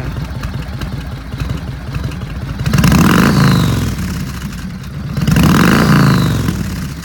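Yamaha Road Star 1600's air-cooled V-twin running through a Vance & Hines exhaust, idling and revved twice, about three seconds in and again about five and a half seconds in, each rev climbing and settling back to idle.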